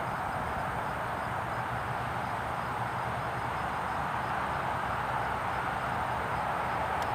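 Steady drone of a Cessna 177 Cardinal's single piston engine and propeller heard from the ground, growing slightly louder near the end as the plane nears.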